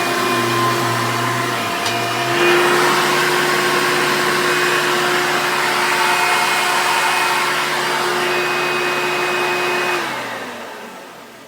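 Upright vacuum cleaner motor running with a steady whine. About two seconds in it steps up in pitch and gets louder, and near the end it is switched off, the whine falling away as the motor spins down.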